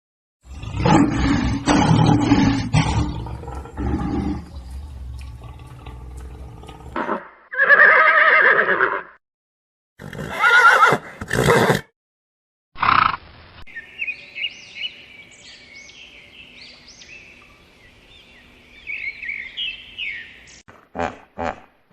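A string of separate animal calls with silent gaps between them, among them a horse whinnying. The longest sound comes near the end: a high, wavering call lasting several seconds.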